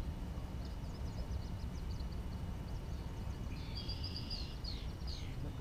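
Small birds calling from the reeds: a run of quick high chirps, then a louder, longer high song about three and a half seconds in, over a low steady outdoor rumble.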